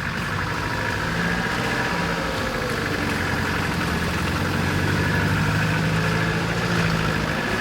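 Off-road 4x4's engine running steadily at low revs, a slow, gentle crawl with no revving.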